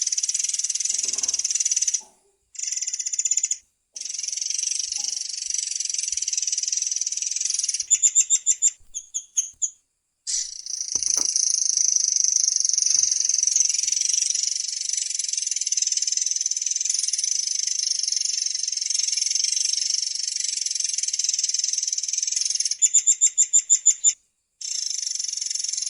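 Murai air songbird singing a long, high-pitched rolling trill, broken by a few brief pauses and twice by a quick run of sharp repeated notes.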